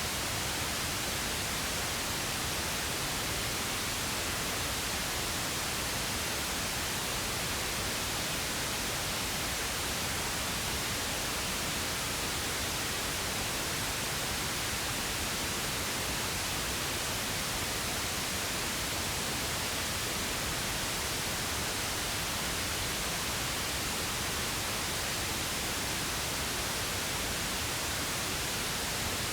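Synthetic pink noise: a steady, even hiss that never changes.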